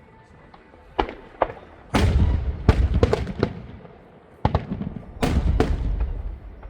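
Aerial fireworks bursting: two single sharp bangs, then two volleys of heavy booms with rumble, about two seconds and four and a half seconds in.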